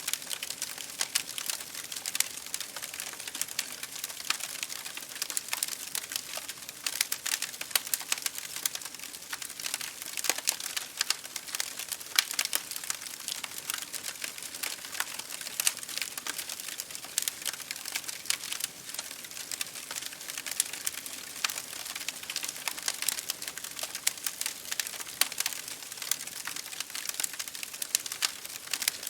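A wood fire crackling in a fireplace, a dense, irregular stream of sharp pops and snaps, over a steady hiss of rain pattering against a window.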